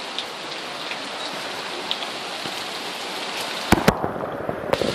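Heavy rain pouring down steadily, with a few sharp knocks near the end.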